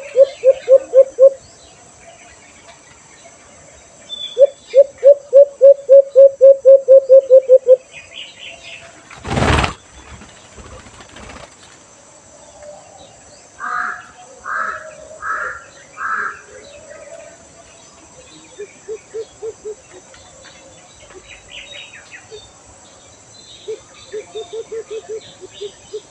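Bird calling in fast runs of low hooting notes, about six a second, in two long bouts early on and shorter bouts near the end, with a group of four higher call notes in between. A single loud knock comes just before the middle.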